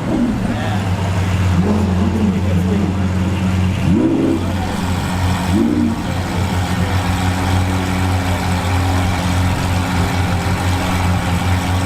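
Exotic sports car engine idling with a steady low drone, blipped a few times in the first half so the pitch rises and falls back, then settling into an even idle.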